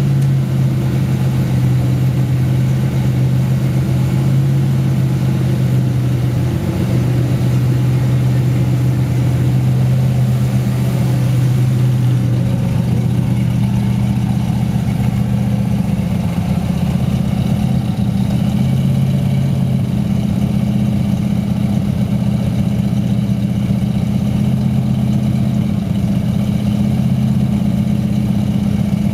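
Cadillac 500 cubic-inch V8, fitted with a Competition Cams "Thumper" camshaft and a Rochester Quadrajet carburettor, running steadily at idle.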